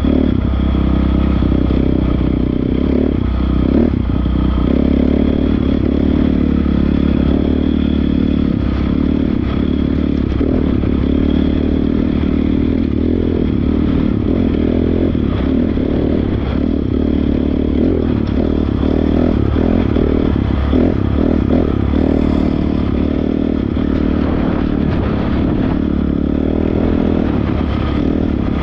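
Honda CRF450R dirt bike's single-cylinder four-stroke engine running steadily under way.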